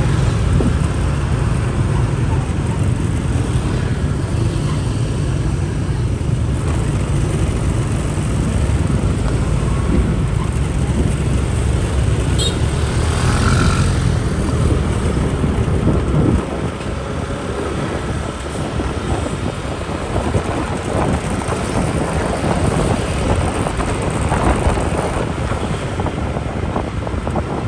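Motorbike riding through dense rush-hour traffic: the bike's engine and the surrounding motorbikes running, with a steady low rumble that eases off a little past halfway through.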